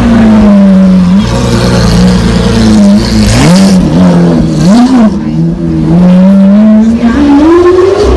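Supercar engine running very loud and close, its pitch held fairly steady, blipped up twice in quick rev flicks, then climbing steadily near the end as it revs up.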